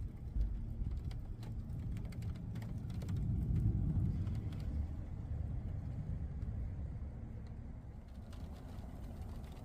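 A low rumble that swells about three to four seconds in and then eases off, with a few light clicks in the first couple of seconds.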